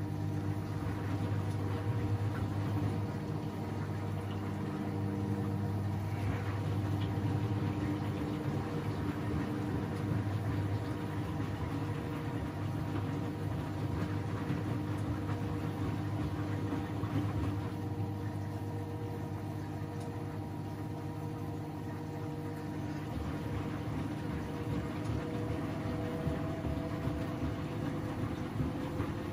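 Front-loading washing machine's motor and drum running steadily during an interim spin between rinses, a steady hum with a faint whine that rises near the end.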